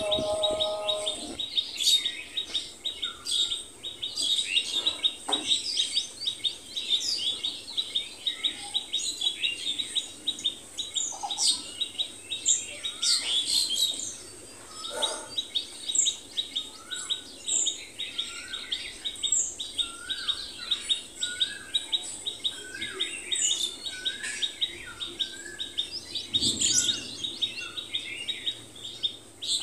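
Small birds chirping and calling, many short high chirps overlapping, with a fast, even trill running under most of it. A run of short down-slurred whistled notes joins in over the second half.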